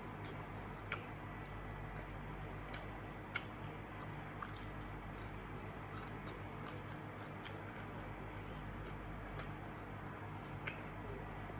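A person chewing food close to the microphone: wet mouth sounds with faint ticks and a few sharper clicks, over a steady low hum.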